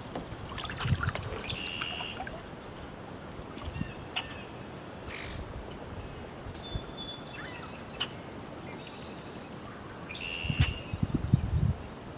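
Several birds chirping and trilling now and then over a faint steady hiss, with a few low muffled thumps near the end.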